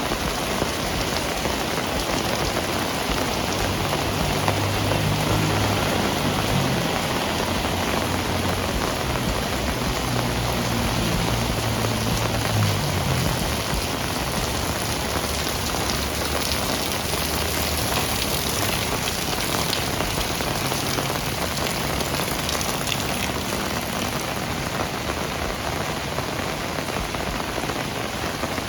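Heavy rain falling steadily. A low drone rises and fades twice in the first half.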